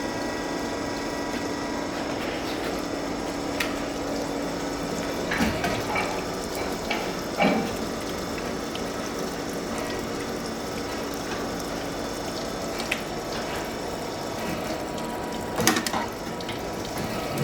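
Servo-indexing milling machine for mixer-grinder shafts running steadily, a constant machine hum with a steady whine, broken by a few short clunks.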